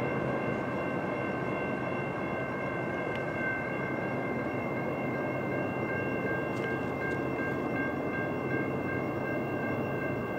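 A train running out of sight, a steady rumble under a high, steady squeal of several tones, typical of steel wheels squealing on curved track.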